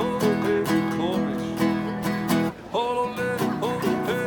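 Yodelling: a man's voice jumping sharply between low chest notes and high falsetto notes, over strummed acoustic guitar chords. The voice breaks off briefly about two and a half seconds in, then resumes.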